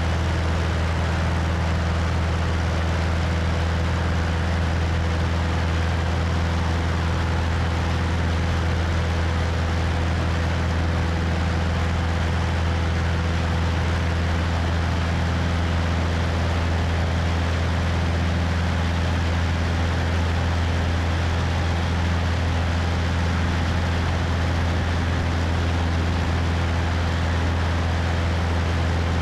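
Cessna 172's piston engine and propeller running steadily in cruise, a constant low hum, with wind rushing over a wing-mounted microphone.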